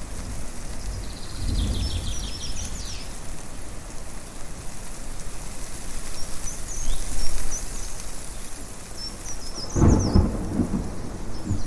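Thunder rumbling over a steady background hiss, with birds chirping. A low rumble builds about a second in, and a stronger, louder roll comes near the end. Between them, short high bird chirps come in quick runs.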